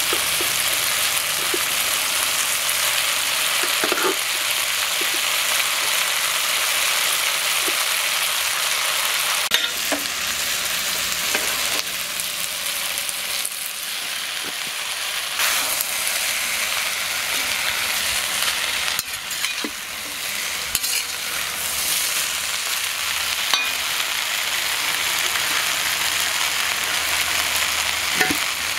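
Tomatoes, onions and green chillies sizzling steadily in oil in an iron kadai, with a ladle scraping and clicking against the pan now and then as it stirs. About halfway through, boiled tender jackfruit pieces are tipped into the pan and stirred in.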